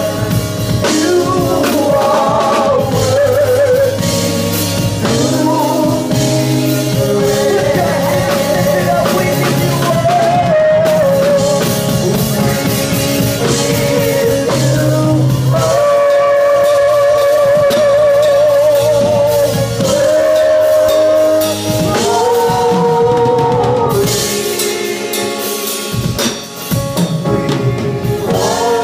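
Gospel worship music: a singer holding long notes with vibrato over a band with a drum kit.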